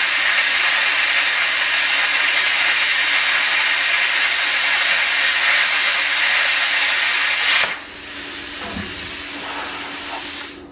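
Small plasma cutter cutting steel: a loud, steady hiss of the arc and compressed air. It cuts off suddenly about eight seconds in, leaving a quieter hiss for the last few seconds.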